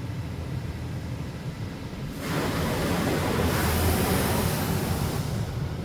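Washworld Razor touch-free car wash spraying water over the vehicle, heard from inside the cabin. A steady low rumble runs throughout; about two seconds in, a loud rush of spray sweeps onto the car, swells, and eases off near the end.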